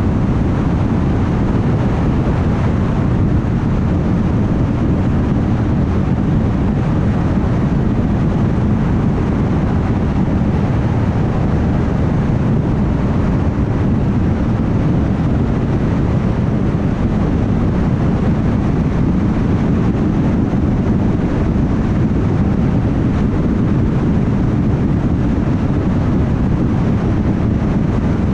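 Car travelling at highway speed: steady tyre and road noise with wind, a deep even rumble that holds constant with no distinct events.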